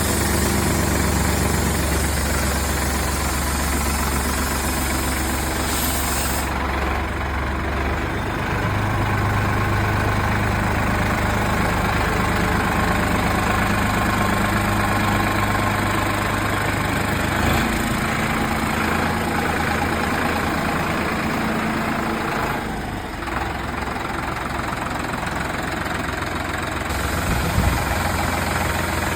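Sonalika DI-745 III tractor's diesel engine running steadily at idle, its note changing abruptly a few times.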